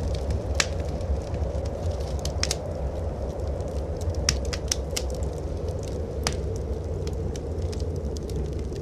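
Wood fire in a fireplace crackling, with a handful of sharp pops scattered through, over a steady low rumble.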